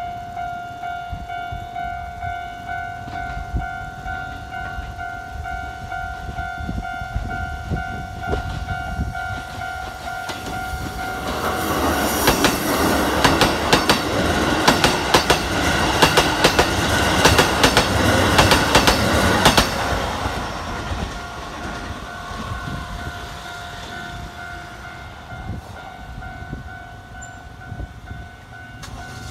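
Keikyu 800 series six-car electric train passing close by, sounding its horn on the approach, its wheels clattering over rail joints in a loud stretch of about eight seconds midway. A level crossing warning bell rings steadily before and after the train goes by.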